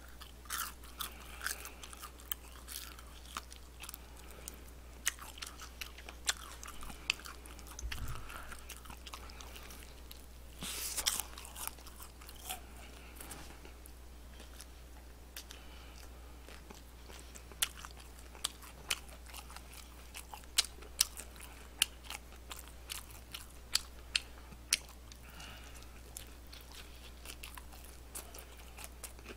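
Crispy fried chicken being bitten and chewed close to a microphone: irregular sharp crunches and clicks of the coating, one longer crunch about a third of the way in.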